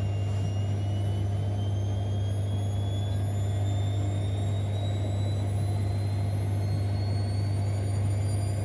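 Siemens Extraklasse XLs 140 A washing machine spinning up: a steady low hum under a motor whine that rises slowly and evenly in pitch as the drum gathers speed.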